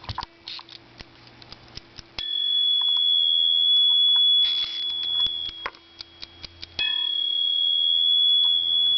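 A small bell from the toaster oven's timer, the 'dinger', rung twice. Each time it gives one steady high tone for a few seconds and is then cut off short. Light clicks of the part being handled come in between.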